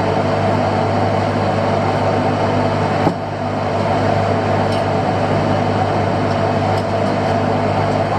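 Fishing boat's engine running with a steady hum. A short click about three seconds in.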